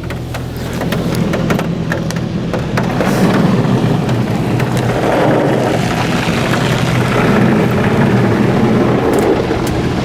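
High-pressure water jets of an Oasis Typhoon touchless car wash spraying the car all over, heard from inside the cabin as a dense rush of water over a steady low machine hum; it grows louder about a second in.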